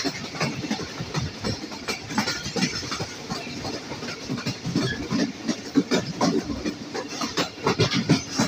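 Passenger train running at speed: the wheels clatter over the rails and the coach rattles, with a steady rumble under many irregular sharp clicks and knocks.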